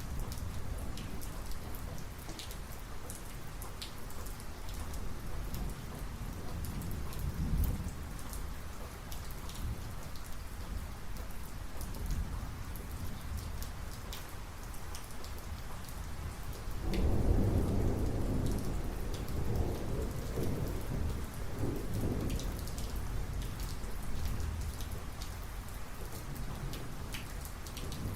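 Heavy rain falling steadily, with individual drops ticking close by. Thunder rumbles low around a third of the way in, then a louder clap breaks suddenly past the middle and rolls on for several seconds before fading back under the rain.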